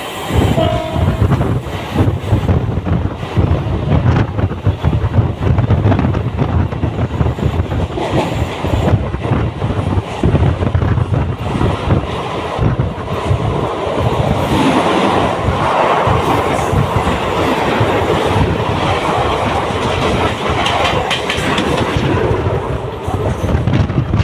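A train running past, its wheels clattering rhythmically over the rail joints above a steady low rumble.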